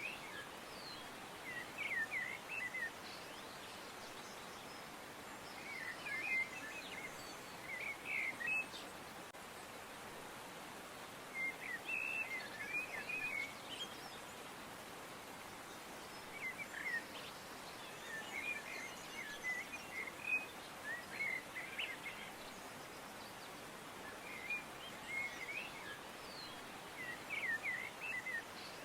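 Songbirds chirping in short twittering bursts every few seconds over a steady background hiss.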